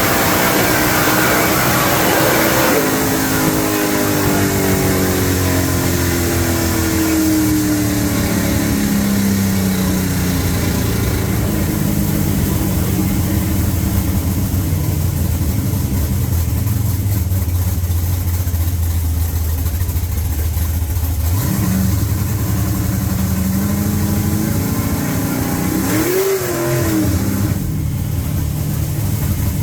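A 1955 gasser's engine held at high revs, then winding down slowly over several seconds to a steady low idle. It gives one short blip about two-thirds of the way through and a quick rev up and back down near the end.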